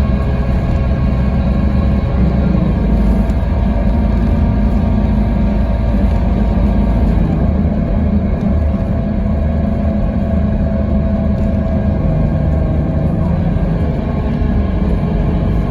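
Scania K320IB coach's five-cylinder diesel engine running steadily under way, with heavy low rumble from engine and road. The engine note dips slightly about halfway through, then holds steady.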